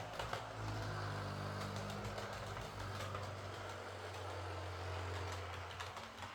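Heljan Class 23 OO gauge model diesel locomotive running on the track: a steady hum from its motor and gear drive, with light clicks from the wheels on the rails.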